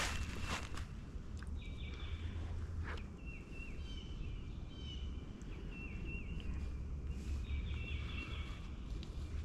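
A songbird singing in the background: a repeated series of short high chirps and down-slurred notes. Under it a steady low rumble, with a few sharp snaps or rustles in the first second and again about three seconds in.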